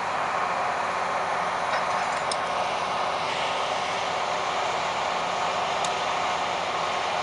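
Steady, even running noise of a moving train, with no clear engine note, and two faint clicks about two and six seconds in.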